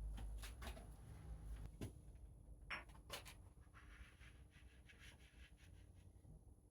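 Faint hand work on a steel part: a few light clicks and knocks and a soft rubbing sound about four seconds in, with a low hum that fades over the first two seconds.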